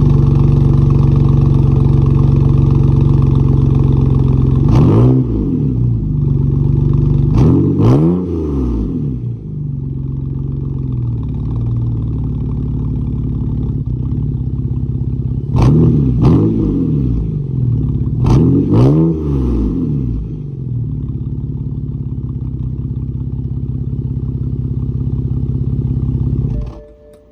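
BMW E91 exhaust, a 3-inch single pipe from the stock headers through a Vibrant Ultra Quiet resonator to dual tips, idling, then revved four times in two pairs, each rev climbing and falling back to idle. The engine is switched off near the end and the sound cuts out.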